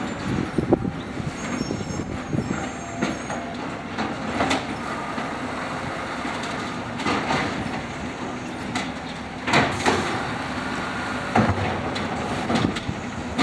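Automated side-loader garbage truck with its engine held at idle while the arm works, and several sharp clangs and bangs spread through, typical of a cart being lifted, shaken out into the hopper and set down.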